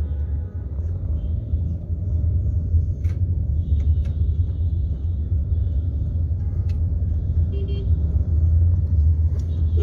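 Steady heavy rumble of road traffic on a moving vehicle, with a few short horn toots.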